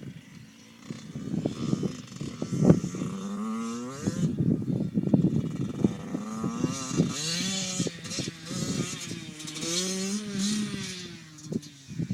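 Dirt bike engine revving hard and climbing in pitch several times as it is ridden and shifted, with knocks and clatter from the bike over the ground; the sharpest knock comes about three seconds in.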